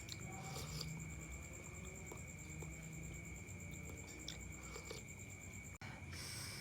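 Soft eating sounds from a bowl of chicken noodles: scattered small clicks and mouth sounds, over a steady high-pitched chirping trill. The sound drops out briefly near the end.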